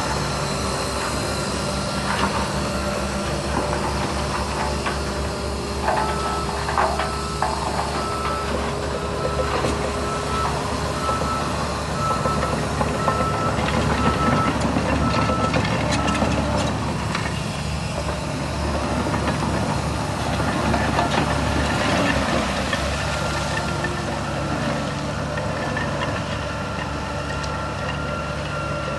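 Diesel engines of heavy earthmoving machines running steadily under load. For several seconds a reversing alarm beeps at an even rate, and a few clanks sound near its start.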